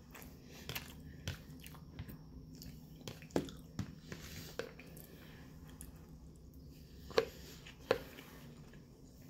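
Close-mic chewing of a mouthful of rice and beans, with a metal fork clicking and scraping against a plastic food tub; the sharpest knocks come about three and a half seconds in and again near seven seconds. A low steady hum sits underneath.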